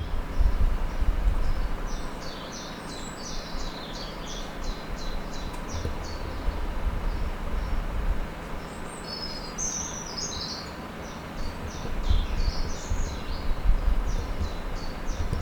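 Outdoor ambience of small birds singing, with two runs of quick repeated high chirps, over a gusty low rumble of wind on the microphone.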